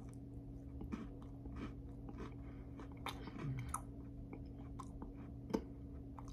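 Quiet chewing of a mouthful of Twix with Cookie Dough candy bar: scattered soft mouth clicks and smacks, one a little sharper near the end, over a steady low hum.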